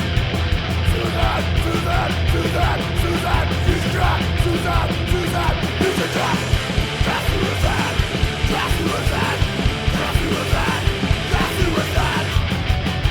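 Punk rock song: a full band playing loud and steady, with a yelled vocal line over it.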